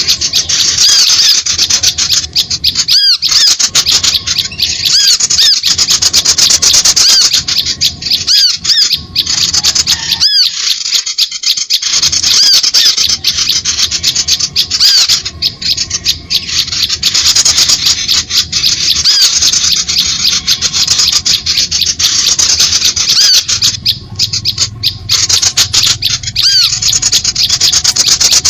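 A loud bird-lure recording: a dense, continuous chorus of rapid, high-pitched chirps and squawks from small birds, with only brief breaks.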